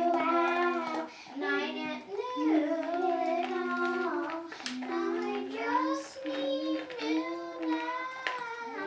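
Children singing a song together, with held notes and sliding pitch.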